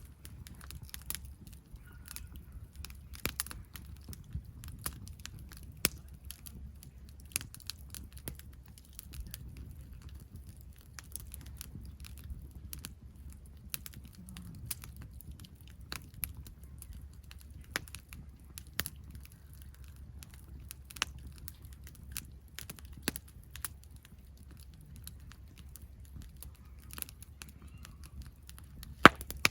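Campfire crackling, with irregular sharp pops a few times a second, some much louder than the rest, over a low steady rumble.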